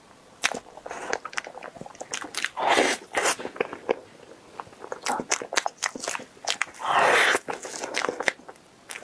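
Close-up chewing of a soft cream-layered crepe cake: wet mouth clicks and smacks throughout, with two longer, louder noisy sounds about three seconds in and about seven seconds in.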